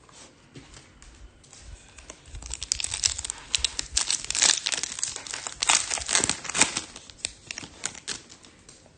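A trading-card pack wrapper being torn open and crinkled. The dense crackling builds about two seconds in and eases near the end.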